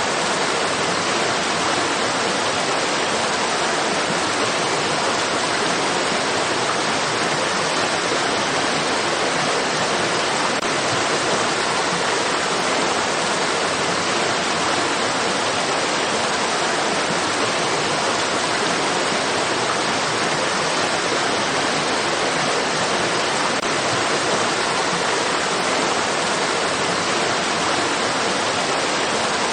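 Flowing stream water rushing steadily, an even hiss with no breaks or changes.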